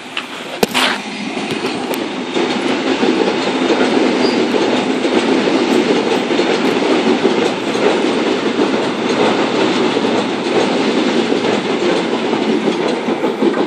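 Sydney Trains Oscar (H set) double-deck electric train passing close by through the station without stopping. Its noise builds over the first couple of seconds and then holds steady as the carriages rush past. A single sharp click comes just under a second in.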